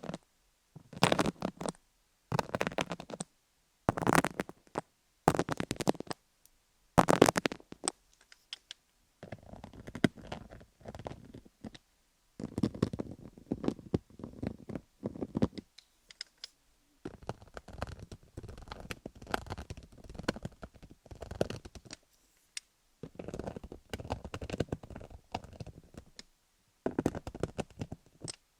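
MTS microneedle roller rolled across a rhinestone-covered dummy-head microphone, giving a dense crackling, clicking clatter. First come short separate strokes about every second and a half, then longer stretches of continuous rolling with brief pauses.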